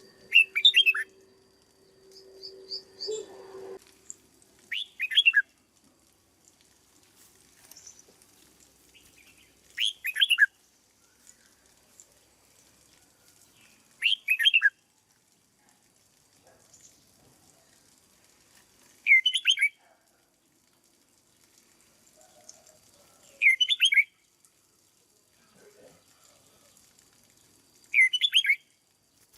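Red-whiskered bulbul singing short, bright phrases of falling notes, seven times, one about every four to five seconds.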